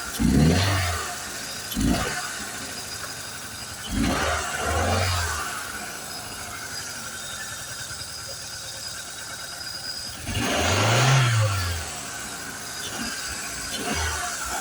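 2003 Hyundai Accent GLS four-cylinder engine idling, with short throttle blips near the start and about four seconds in, a longer rev that rises and falls over about two seconds around ten seconds in, and a small blip near the end.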